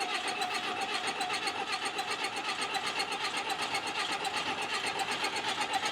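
12-valve Cummins diesel in a tractor being turned over by its electric starter, with a steady whine and an even chug of about nine or ten compression pulses a second, cranking without catching.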